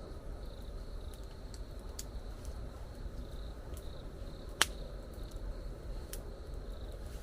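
Insects chirping steadily in the jungle over a low, even rumble, with scattered faint ticks and one sharp click about two-thirds of the way through.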